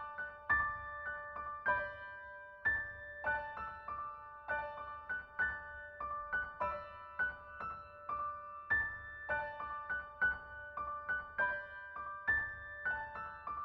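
Background music: a gentle piano melody of single struck notes that ring and fade.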